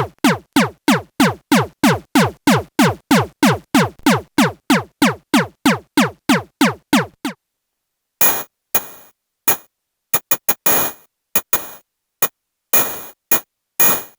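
SxLab Fortress synthesizer patch: a fast, even train of pitched electronic hits, about four a second, each dropping sharply in pitch. It stops suddenly about seven seconds in. After a short silence come irregular short noisy, metallic-sounding percussive hits with a ringing high tone.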